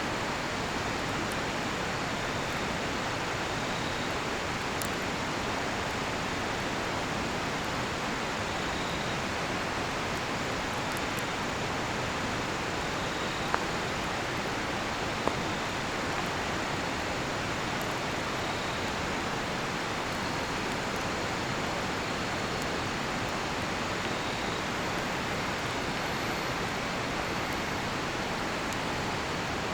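Steady rushing of a nearby river, with faint crickets chirping in short repeated calls above it. About halfway through, the cedar-wood campfire gives two sharp pops a couple of seconds apart.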